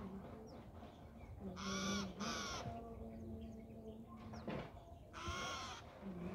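Harsh, caw-like bird calls: two in quick succession about two seconds in and another about five seconds in, over a low steady hum.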